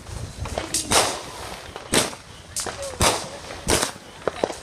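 Fireworks going off: a series of sharp bangs roughly a second apart, with a couple of smaller pops close together near the end.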